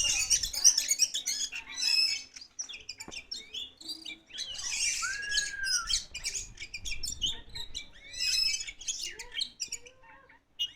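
Oriental magpie-robin (kacer poci) singing a fast, varied run of chirps, trills and whistles, with one clear whistle that rises and falls about halfway through.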